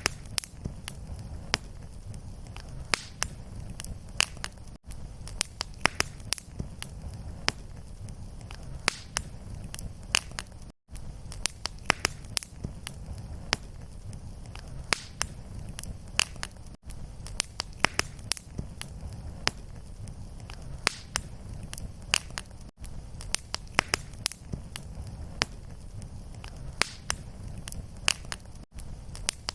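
Fireplace fire crackling, with many irregular sharp pops over a steady low rumble. The sound drops out for a moment about every six seconds, where a short fire recording repeats as a loop.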